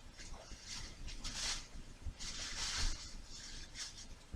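A few short, soft rustling or breathy bursts with scattered light knocks.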